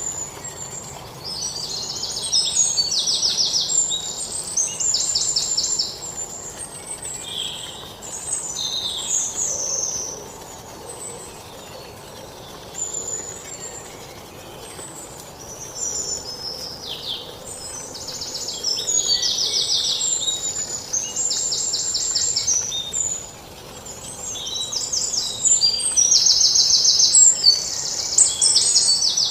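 Songbirds singing: phrases of high chirps and fast trills, each a second or two long, following one another with short pauses, over a faint steady outdoor hiss.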